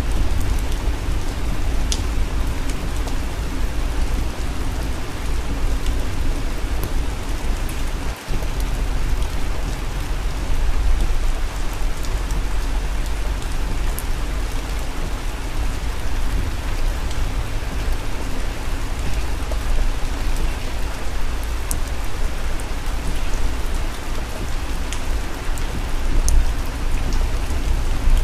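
Heavy rain pattering on a moving car's windshield and roof, heard from inside the cabin over a steady low road rumble, with scattered sharp drop ticks. The sound briefly cuts out about eight seconds in.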